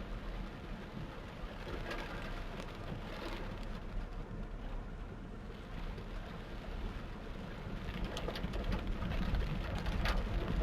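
Torrential rain falling, a steady rushing noise with a low rumble, growing louder in the second half.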